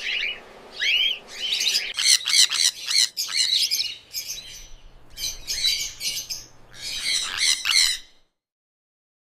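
A flock of cockatiels calling together, many short high chirps overlapping in a dense chatter. The sound cuts off abruptly about a second before the end.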